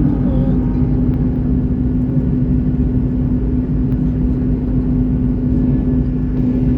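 Steady, loud drone of a passenger jet's engines and rushing air heard inside the cabin, with one steady low hum running through it.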